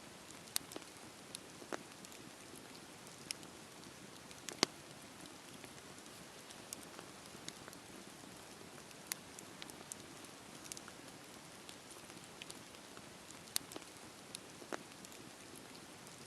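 Campfire burning: a soft steady hiss with irregular sharp crackles and pops of burning wood, one loud pop a little over four seconds in.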